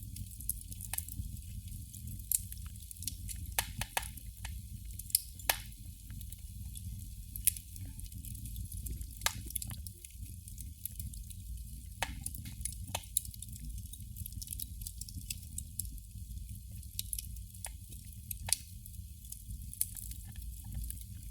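Candle flame crackling: irregular small sharp pops and clicks, some louder than others, over a low steady rumble.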